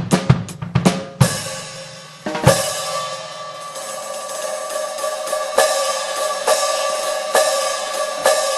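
Sampled acoustic drum and cymbal sounds from a 2Box electronic drum module, triggered by the pads: a few quick drum hits, then a cymbal crash about a second in. It is followed by repeated cymbal strikes about once a second that ring on over each other.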